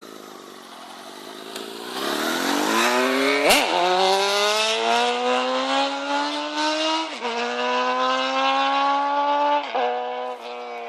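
Honda CBR929RR sport bike's inline-four engine accelerating hard through the gears, the rising pitch cut by quick upshifts about three and a half, seven and nine and a half seconds in. It gets louder over the first two seconds and fades near the end.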